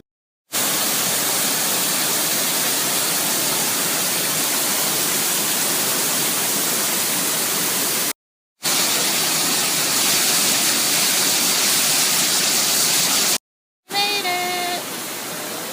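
Waterfall rushing, a loud, steady wash of water noise, broken twice by brief cuts to silence.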